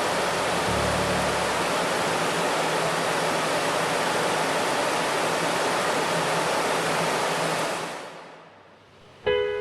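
Steady rushing water noise that fades out about eight seconds in. Just before the end, struck notes of music start.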